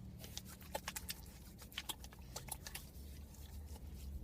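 Hands rubbing in hand sanitizer: faint, irregular small clicks and wet ticks.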